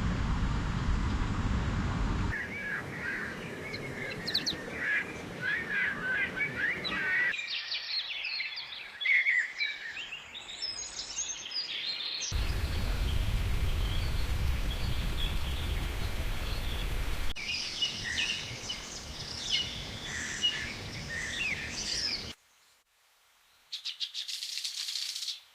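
Wild birds chirping and calling over outdoor background noise, in a series of short segments that cut abruptly every few seconds, the low background rumble dropping out and returning between them. Near the end, after a brief near-silent gap, comes a fast high trill.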